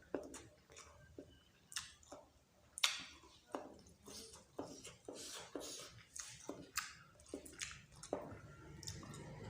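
A person chewing a mouthful of dal bhat with meat, with irregular wet smacks and squelches.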